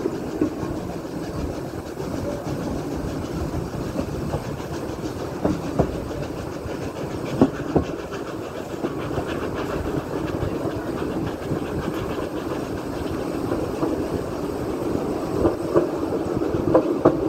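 Narrow-gauge steam train running, heard from a carriage window: a steady rumble of wheels on the track, with pairs of sharp clacks as the wheels cross rail joints, several more near the end.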